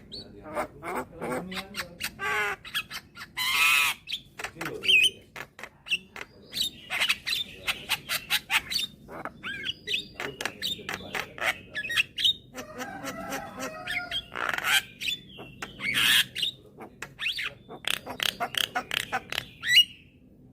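Young Javan myna (jalak kebo) calling busily: a fast, varied run of harsh squawks, rapid clicks and short whistled glides, breaking off shortly before the end.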